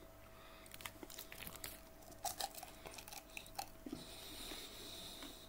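Faint chewing and crunching of breaded chicken nuggets, with soft crinkles from the plastic packet being handled; scattered short crackles.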